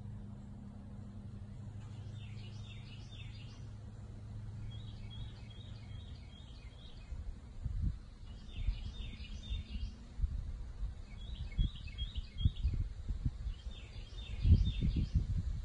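A songbird singing a short phrase of quick high notes, repeated five times a couple of seconds apart, over a steady low hum that fades out about two-thirds of the way in. Low thumps and rumbles come and go through the second half, loudest near the end.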